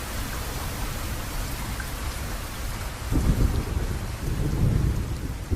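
Steady rain with a low roll of thunder that begins about three seconds in and swells again near the end.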